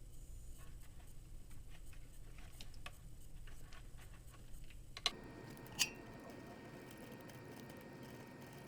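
Light ticks and clicks of small parts being handled and fitted by hand, with two sharper clicks about five seconds in. A steady faint hiss follows.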